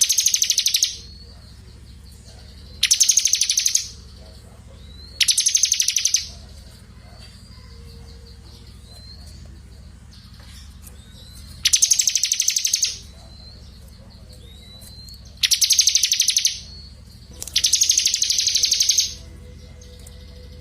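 Small songbird singing a fast, buzzy high trill about a second long, six times over, with short thin rising whistles between the trills. A steady low hum runs underneath.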